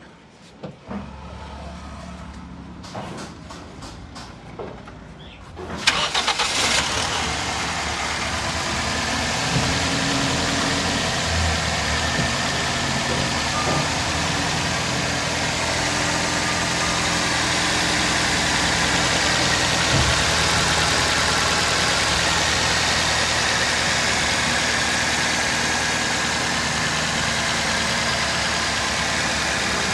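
Toyota 2NZ four-cylinder petrol engine starting about six seconds in after a few light clicks, then idling steadily. Its tappets have just been adjusted to cure a valve noise.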